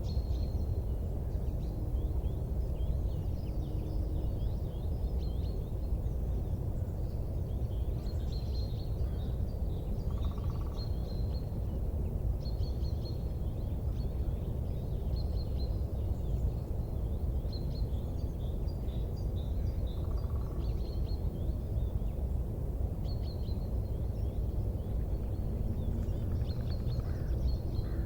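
Steady low rumbling noise with small birds twittering in repeated short, high chirps throughout.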